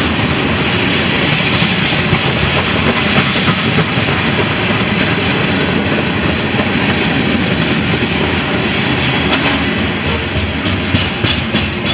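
A CSX freight train's covered hopper cars rolling past close by: a steady, loud rumble of steel wheels on the rails.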